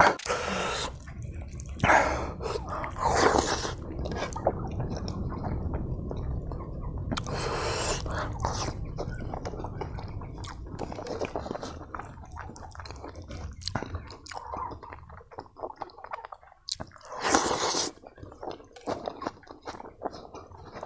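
Close-miked mouth sounds of someone chewing a mouthful of rice and meat: wet smacking and small clicks over a low, steady rumble. A few louder, noisier moments come through it.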